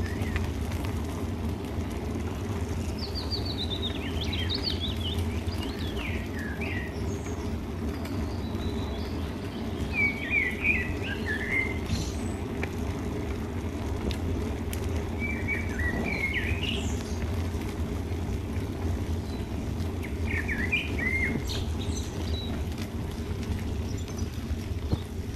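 A small songbird singing short twittering phrases, four or five times, over a steady low rumble.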